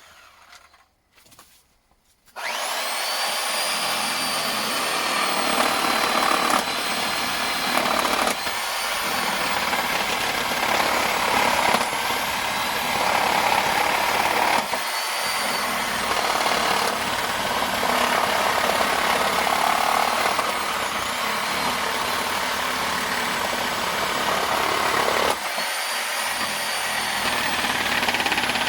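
Reciprocating saw (Sawzall) with a carbide wood-with-nails blade cutting pallet wood. It starts about two seconds in with a rising whine, then runs steadily with three short breaks.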